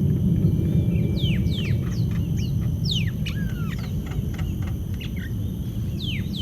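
Birds calling in quick, high whistles that slide steeply downward, several in a row and again near the end, over a steady low rumble.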